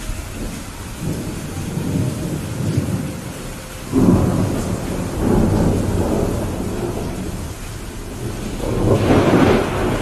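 Steady rain with rolling thunder: low rumbles build from about a second in, a sudden loud crack-and-rumble comes about four seconds in, and another swells to a peak near the end.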